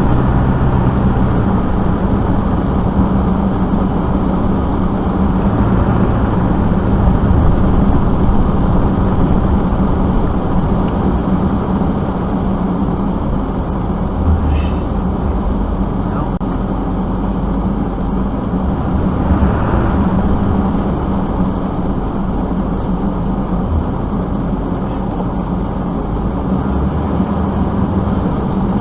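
A vehicle engine running steadily, a constant hum under an even rushing noise.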